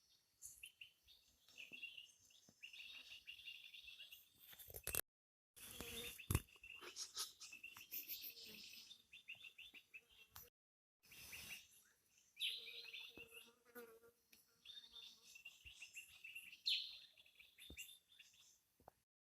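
Faint forest bird calls and insect chirping, many short high chirps and trills, broken twice by brief dropouts to silence.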